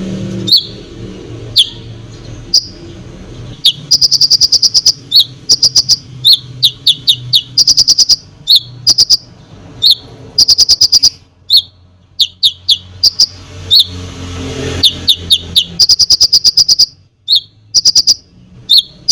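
A konin songbird in full song: sharp, high chirps and fast rattling trills of rapid-fire notes, delivered in repeated bursts, over a low background hum.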